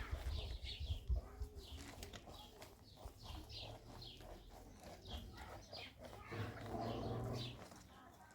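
Small birds chirping over and over in short, high chirps, about two a second. About six and a half seconds in there is a louder, lower sound lasting about a second.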